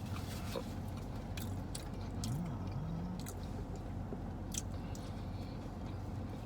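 A person chewing a mouthful of mashed potatoes, gravy and crispy popcorn chicken, with scattered small mouth clicks over a steady low hum.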